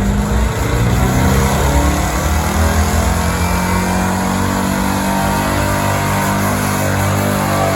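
Stock gasoline pickup truck engine run hard at high revs under heavy load, as in a truck pull. The pitch holds fairly steady throughout.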